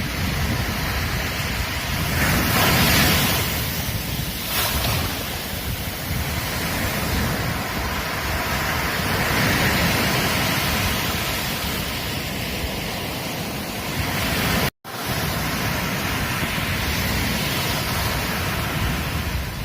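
Ocean surf washing on a beach: a continuous rush of breaking waves that swells and eases, loudest about three seconds in. The sound cuts out completely for a split second near the fifteen-second mark.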